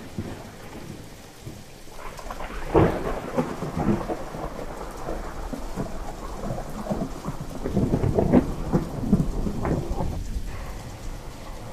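Heavy rain with rolling thunder. One rumble swells about three seconds in, and a longer, louder one builds from about seven and a half to ten seconds in before dying away.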